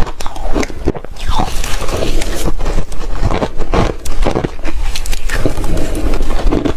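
Loud, close-up crunching of a person chewing shaved freezer ice: a continuous run of irregular crunches.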